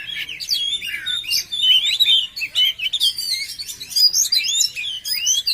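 Oriental magpie-robin (kacer) singing a rapid, unbroken stream of varied whistles and chirps.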